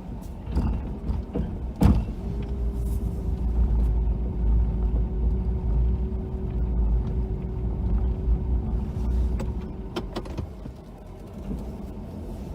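Ford F-250 plow truck's engine running with a steady low rumble, heard from inside the cab. A steady whine runs from about two seconds in until about ten seconds, and there are a few knocks, the loudest about two seconds in and another about ten seconds in.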